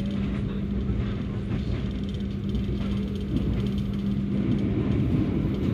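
Passenger train running, heard from on board: a steady rumble of the wheels on the rails with a constant low hum underneath.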